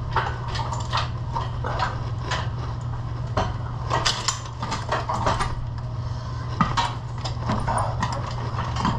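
Irregular metallic clinks, knocks and rattles as the engine is shifted and worked free on the hoist, over a steady low hum.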